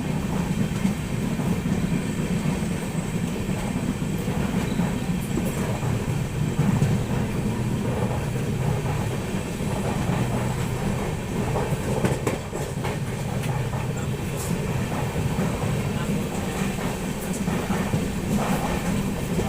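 Passenger train coaches running along the track, heard from on board: a steady low rumble with the wheels clacking over the rail joints now and then.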